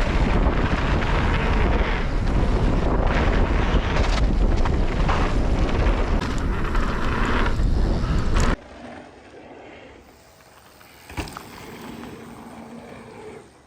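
Wind rushing over the microphone and the rumble of an electric mountain bike's tyres riding fast down a jump line. The noise cuts off suddenly about two-thirds of the way through, leaving a much quieter background with one sharp click.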